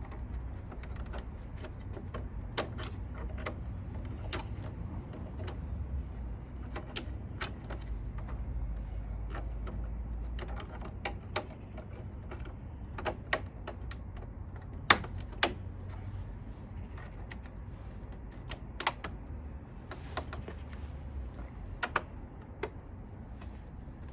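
Irregular light clicks and knocks of parts being handled and worked on, over a low steady rumble, with a few sharper knocks in the second half.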